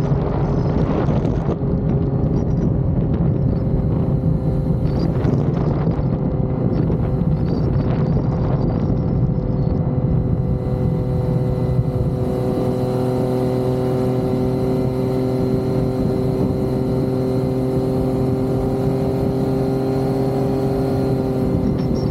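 Yamaha XSR900's inline three-cylinder engine running at a steady cruise, with some gusts of wind noise in the first half and an even, unchanging engine note in the second.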